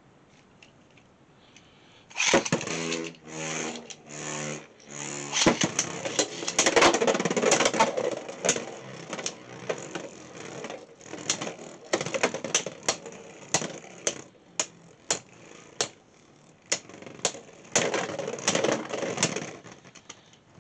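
Beyblade X battle in a plastic stadium: three short whirring pulls from the launchers, a sharp clack at launch, then the tops spinning and clashing with many sharp hits that thin out, and a second flurry of hard hits near the end.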